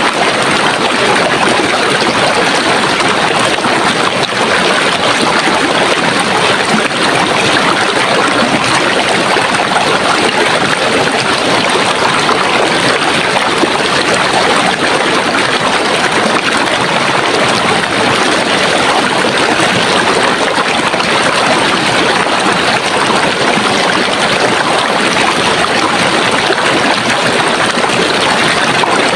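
Running water of a stream flowing steadily, an even rushing with no breaks.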